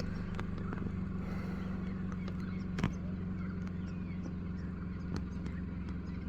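Steady low hum of an idling car engine, with one sharp click a little under three seconds in.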